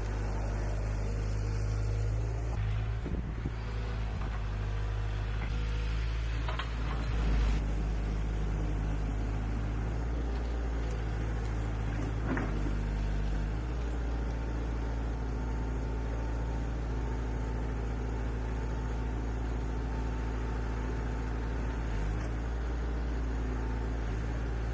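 Excavator's diesel engine running steadily, with a few short knocks and clanks about 3, 7 and 12 seconds in.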